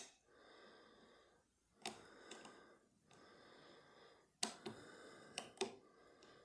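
Lever lock being picked: a handful of small, sharp clicks from the pick and tension tool working the levers, in pairs about two and four to five seconds in. Between them, soft breaths close to the microphone.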